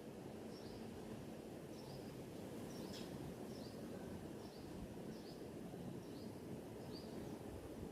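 A small bird repeating a short, high chirp roughly once a second over a steady low background rumble of outdoor noise.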